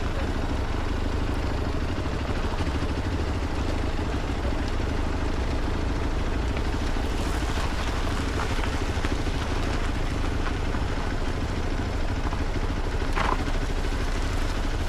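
Motorcycle engine running steadily under a low rumble of wind noise, with a short higher-pitched sound near the end.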